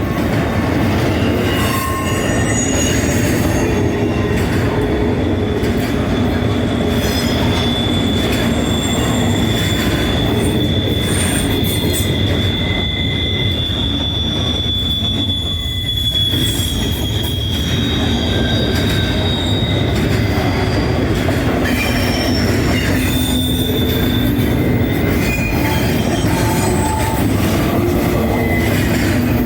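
Train rolling past, a steady rumble of wheels on rail with high-pitched wheel squeal: many short squeals and one long squeal held for about ten seconds in the middle.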